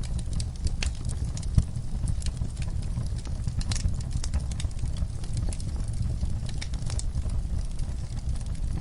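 Wood fire crackling in a fireplace: irregular sharp pops and snaps over a low steady rumble of the flames, with one louder pop about a second and a half in.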